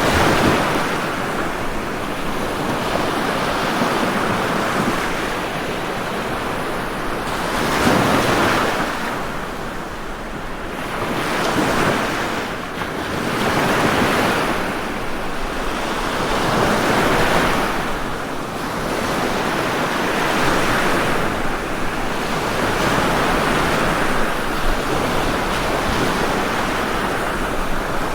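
Ocean waves breaking and washing on a shore, a continuous surf rush that swells and ebbs every few seconds.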